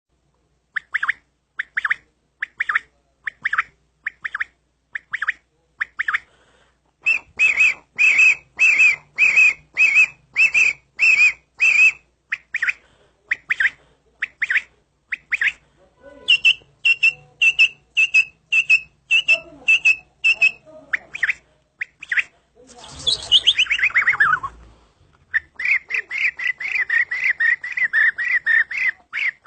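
A man imitating bird calls with his voice: strings of short, squawking high calls repeated about two a second, one long falling swoop about three quarters of the way through, and a fast run of chirps near the end.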